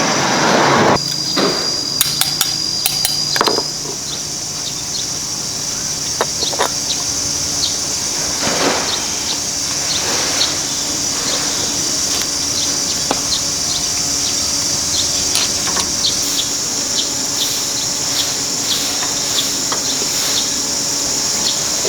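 Scattered metal taps and clinks from hand tools working on gearbox parts, over a steady high-pitched buzz of insects.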